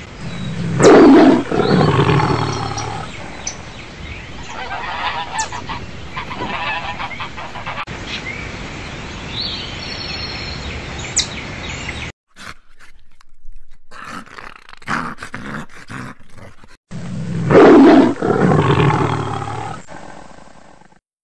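Loud animal calls: a big call about a second in and another near the end, with quieter calls in between.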